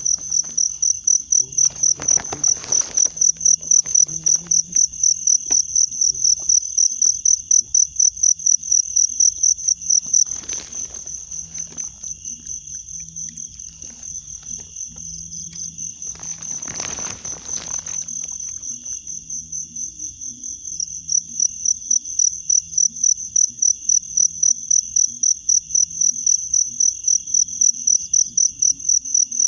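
Cricket chirping close by in a fast, even, high-pitched pulse that goes on throughout, growing quieter for about ten seconds in the middle. Three short noisy bursts cut in over it: near the start, about ten seconds in, and around seventeen seconds in.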